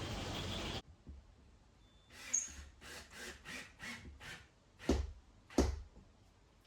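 Steady wind noise on the microphone cuts off abruptly less than a second in. From about two seconds in come a run of light knocks and taps of flooring planks being handled and fitted into place, ending in two louder thumps.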